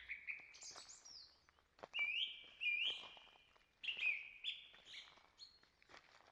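Songbirds singing in woodland: a run of clear whistled notes, each sweeping up quickly and then holding a steady pitch, repeated about every half second to a second.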